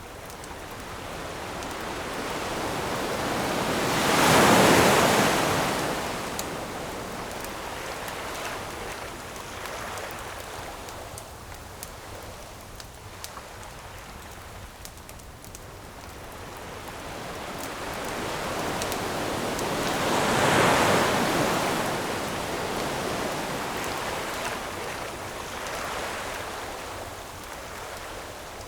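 Ocean waves washing onto a beach: two waves swell up and break about sixteen seconds apart, over a steady surf hiss. Faint, sparse crackles from a campfire sit underneath.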